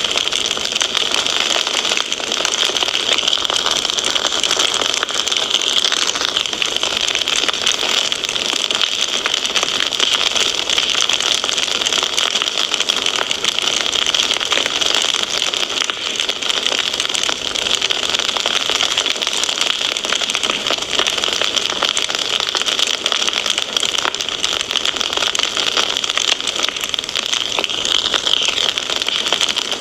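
Wood fire crackling steadily: a dense stream of small snaps and pops over a continuous hiss.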